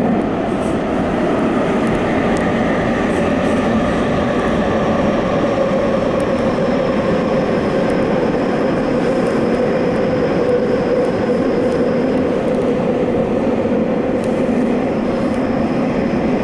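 Tokyo Metro Fukutoshin Line subway train running at speed between stations, heard from inside the train. A steady, loud rolling rumble with a faint high whine that drifts slightly lower in pitch.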